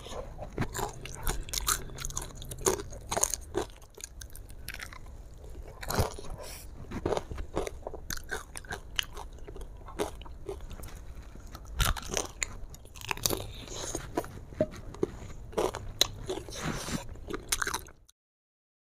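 Close-up chewing and crunching of crispy fried chicken coated in spicy sauce, with many sharp irregular crunches from the fried coating. It cuts to dead silence just before the end.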